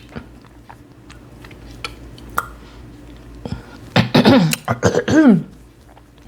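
A woman clearing her throat and coughing in a few short, strained voiced bursts about four seconds in, after a stretch of faint clicks.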